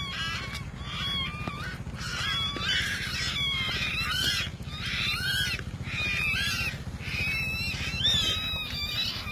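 Many captive wild birds calling at once: short, overlapping squawks and chirps that bend up and down in pitch, with no break. A steady low hum runs beneath them.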